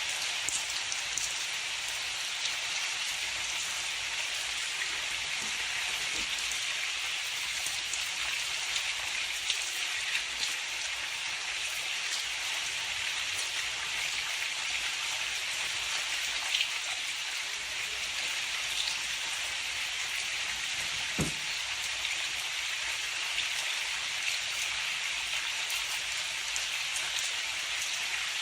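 Steady heavy rain falling, an even hiss with scattered drops ticking, one a little sharper than the rest about three quarters of the way through. No thunder is heard.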